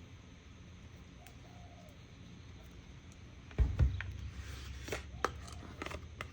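Items handled on a craft table: a heavy knock about three and a half seconds in, followed by several sharp clicks and taps, over a low steady hum.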